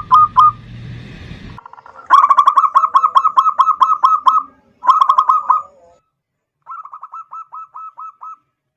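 Zebra dove (perkutut) calling: rapid runs of short, hooked coo notes, about four or five a second. The runs break off abruptly a few times, with a brief silence past the middle before a softer run resumes.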